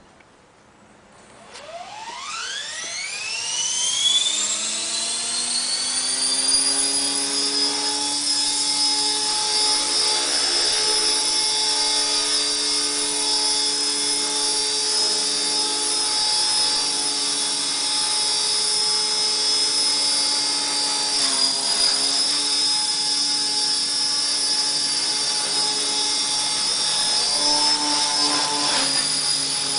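Align T-Rex 450 SE V2 electric RC helicopter spooling up, its whine rising in pitch over about four seconds. It then holds a steady high whine of motor, gears and rotor blades in flight, with brief pitch wobbles around the two-thirds mark and near the end.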